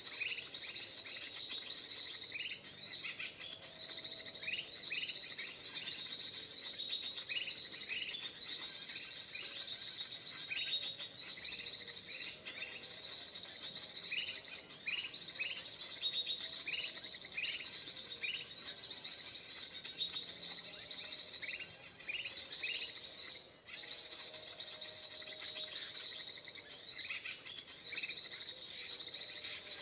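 Kutilang emas, a bulbul, calling: fast chirps repeated without pause, the lure recording played from an MP3 player to draw the birds in.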